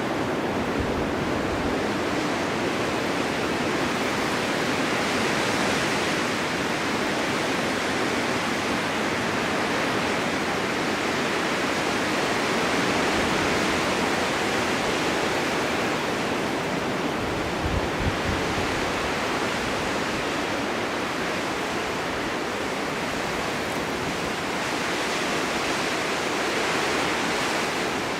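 Blizzard wind blowing snow: a continuous rushing hiss that swells and eases every several seconds, with one brief low buffet about two-thirds of the way through.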